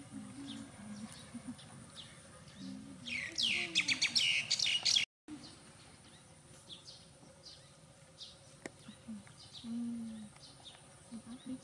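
Birds chirping: short high chirps repeat throughout, with a loud run of rapid falling chirps about three seconds in. The sound drops out completely for a moment about five seconds in.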